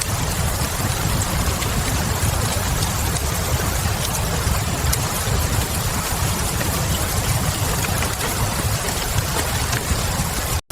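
Fireplace crackle layered with steady rain: an even hiss over a low rumble, with small scattered crackles. The sound drops out for an instant near the end.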